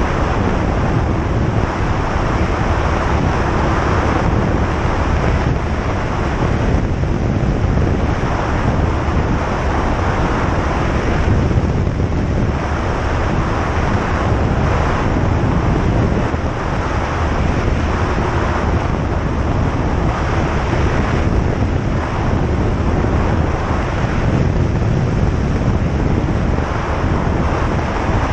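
Single-engine light aircraft in flight: a steady drone of engine and propeller mixed with the noise of air rushing past.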